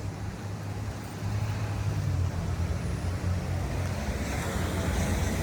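Street traffic: a motor vehicle's engine drones steadily under the noise of the road, growing louder about a second in.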